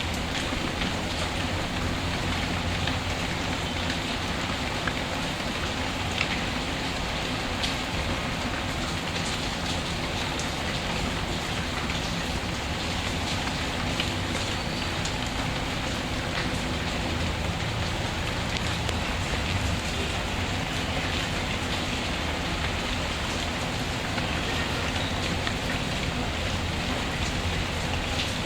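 Steady rain, even and unbroken, with scattered sharp ticks and crackles over it, as from a wood fire burning in a fireplace.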